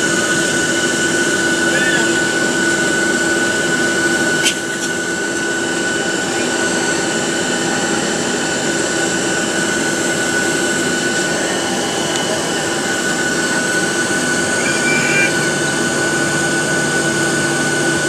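Steady jet-engine whine and air-conditioning rush inside a Boeing 737-700 cabin, with a steady high tone over it. A single click about four and a half seconds in.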